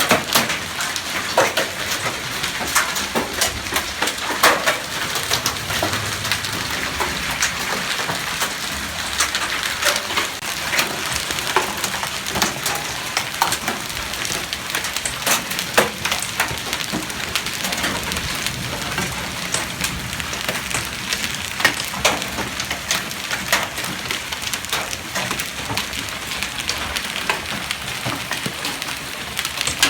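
Hailstorm: hail and rain pelting down, a dense steady hiss studded with many sharp, irregular hailstone impacts.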